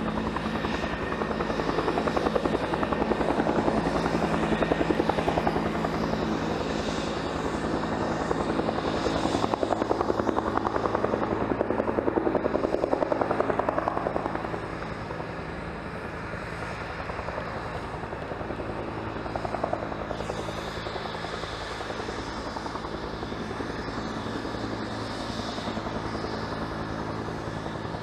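Bell helicopter running, its main rotor beating rapidly over a steady turbine tone. The sound drops in level about halfway through and stays steady after.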